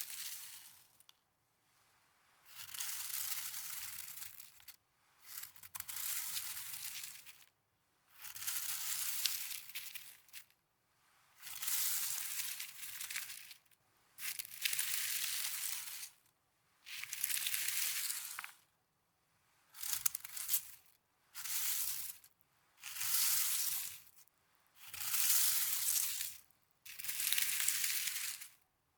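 Snow being crushed close to the microphone in repeated squeezes: a crunching hiss lasting one to two seconds each time, coming about every two to three seconds, with a few shorter squeezes around the middle.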